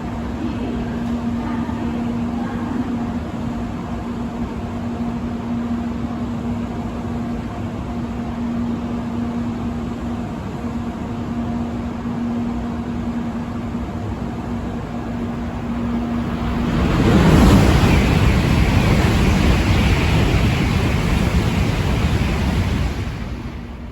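Shinkansen train passing through at high speed: a loud rush of air and wheels that swells suddenly and lasts about six seconds, then falls away sharply. Before it comes a steady hum with a low tone.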